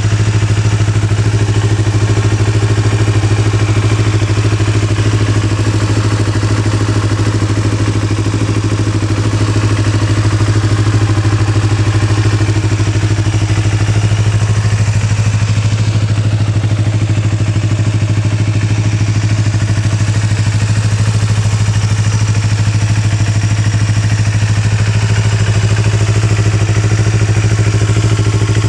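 Yamaha YZF-R25's 249 cc parallel-twin engine idling steadily through an Akrapovič aftermarket muffler, an even, unchanging hum.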